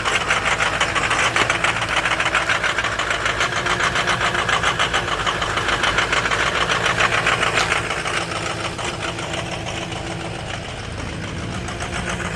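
Ford 6.0 L Power Stroke V8 turbo diesel idling just after a cold start in freezing weather: a fast, even diesel clatter, still running a little chunky while cold.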